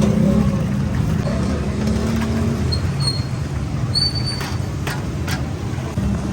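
Steady low hum of road traffic and running engines, with a few short clicks and brief high chirps in the second half.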